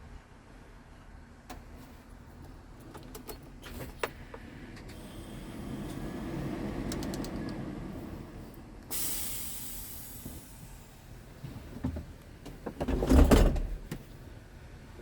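Clicks and handling noises on a Scania R tractor unit. A sudden hiss of compressed air starts about nine seconds in and fades. A heavy thump near the end is the loudest sound.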